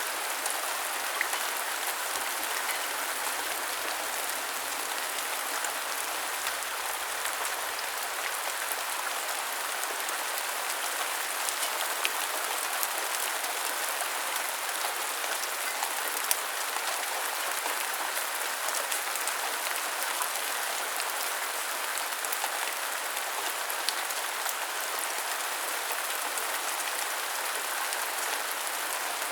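Steady rain falling, an even hiss of drops with a few sharper drop taps standing out here and there.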